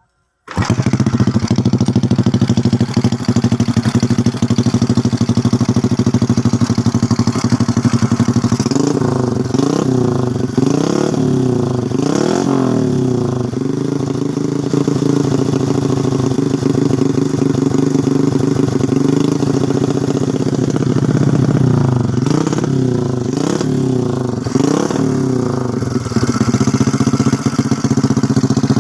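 Honda Karisma 125's single-cylinder four-stroke engine running through an aftermarket Norifumi exhaust. It idles steadily, is blipped in a quick run of throttle revs about nine seconds in, settles back to idle, then is blipped four more times in a row a little past twenty seconds, with another rev starting at the very end.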